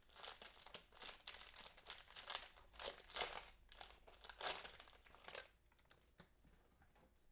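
Cellophane wrapper of a football trading-card cello pack crinkling in the hands, in irregular bursts that die away about five and a half seconds in.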